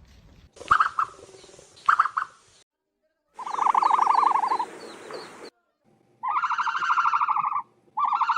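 Ostrich calls in several separately spliced recordings with hiss behind them: two short calls, then a longer rapidly pulsing call, then two trilling calls of about a second and a half each.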